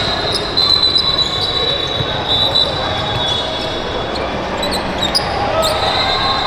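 Basketballs bouncing on a hardwood gym floor, a string of sharp thuds against a murmur of voices in a large hall, with a thin steady high tone twice.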